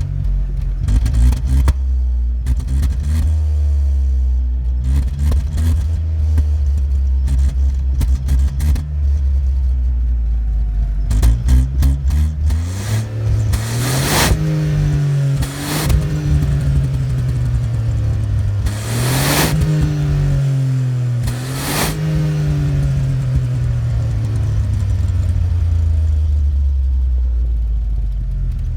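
2021 Dacia Sandero 1.0 TCe 100 LPG's turbocharged three-cylinder engine heard through its side-pipe exhaust, idling and revved while stationary. It starts with a series of short blips, then about four longer, higher revs in the middle, each with a rush of noise at its peak, and settles back to idle near the end.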